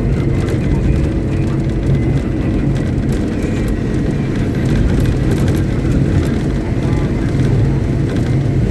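Caterpillar 777D haul truck's V8 diesel engine running steadily at a constant speed, loud and low, with a faint steady high whine above it.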